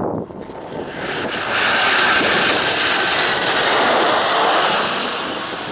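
Jet airliner's engines running as it passes close by. The roar swells over the first second or two, then holds loud with a high whine over it.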